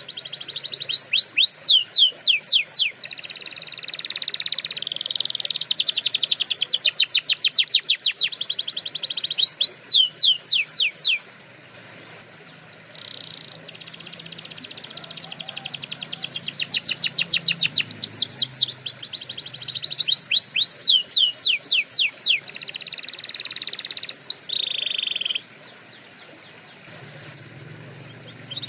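Domestic canary singing: long song phrases made of fast runs of repeated sweeping notes and rapid trills. The song breaks off about eleven seconds in, resumes a few seconds later, and stops again about twenty-five seconds in.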